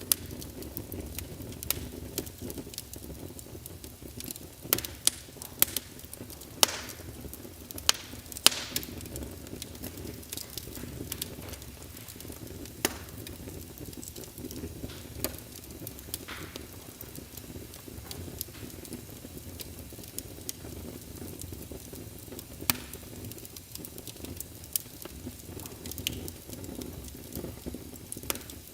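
Wood logs burning in a fireplace: a steady low rumble and hiss of flames with scattered sharp crackles and pops, several of the loudest bunched about five to nine seconds in.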